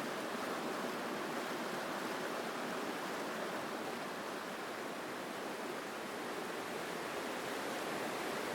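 Mountain stream rushing over rocks in a steady, strong flow of water.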